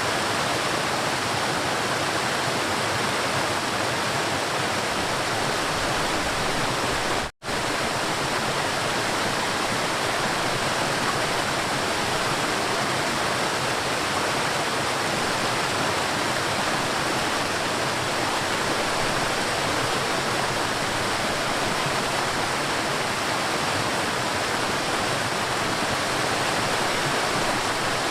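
River water flowing and rushing in a steady, even wash. About seven seconds in, the sound cuts out for a split second, then carries straight on.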